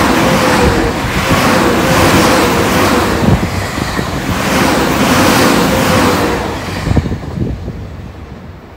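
Electric commuter train passing close by: a loud steady rumble and clatter of wheels on the rails with a faint hum running through it. The sound fades away after about seven seconds, with a last knock as it goes, leaving light wind noise.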